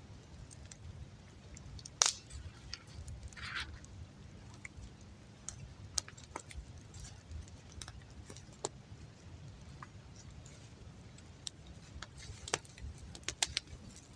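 Campfire burning damp firewood, crackling with scattered sharp pops over a low steady rumble; one loud crack about two seconds in and a quick cluster of pops near the end.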